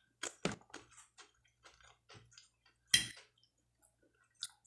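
A person chewing a mouthful of food, with short soft clicks through the chewing and one sharper, louder click about three seconds in.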